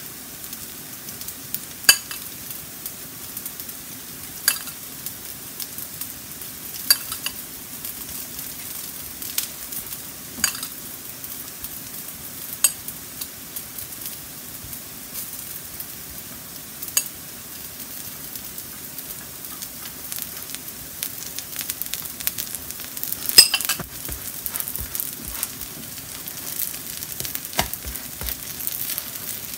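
Potato-vegetable pancakes sizzling in oil on a flat griddle, with a sharp tap of a utensil against the griddle every few seconds. The loudest tap comes about 23 seconds in, and the sizzle gets louder and more crackly near the end.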